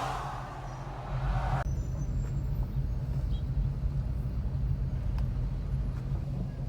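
1959 Imperial's V8 running with a steady low rumble in slow stop-and-go traffic, heard from inside the car. A loud hiss at the start cuts off suddenly a little over a second in.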